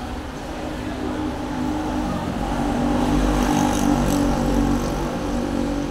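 A motor vehicle's engine running close by on a city street, growing louder about halfway through and easing off near the end.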